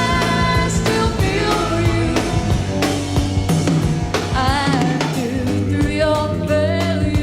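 Live band playing a pop-rock song: a sung lead vocal over drum kit and electric bass, heard from a cassette tape recorded off an FM radio broadcast.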